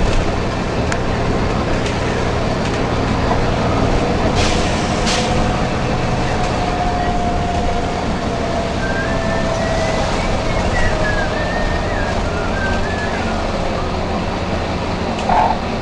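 Volvo B9TL bus's diesel engine running steadily, with two short pneumatic air hisses about four and five seconds in. A faint whine slowly drops in pitch through the middle.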